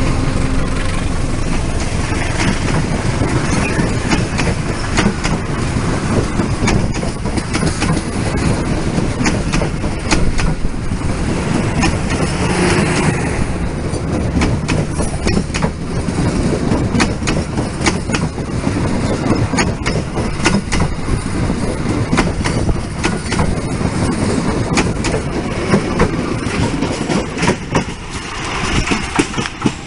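Long-distance passenger train passing close by, its carriage wheels clattering over the rail joints in a steady run of clicks and knocks.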